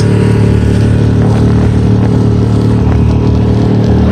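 Tohatsu 6 hp four-stroke outboard motor running steadily at half throttle and pushing an inflatable dinghy; it is held at half throttle for break-in.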